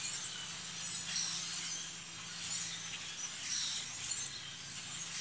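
Chorus of many marsh birds calling and singing at once, high chirps and trills overlapping in waves.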